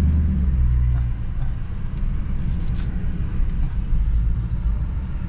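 Dodge Charger R/T's 5.7-litre Hemi V8 running with a steady low engine drone, slightly louder for about the first second.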